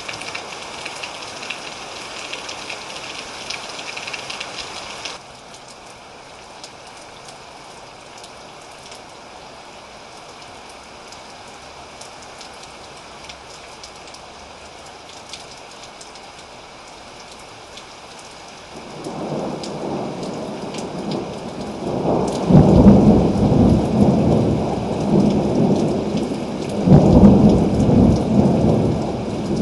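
Steady rain falling in a thunderstorm; a brighter hiss of rain cuts off suddenly about five seconds in. About two-thirds of the way through, thunder rolls in loud and low, swelling in two big peals.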